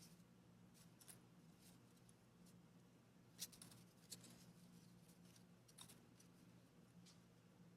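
Faint fireplace crackle: scattered sharp pops and ticks at irregular intervals, the loudest about three and a half seconds in, over a low steady hum.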